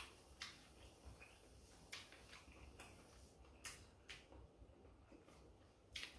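Near silence broken by faint, irregular soft clicks of a mouth chewing a mouthful of blanched squid.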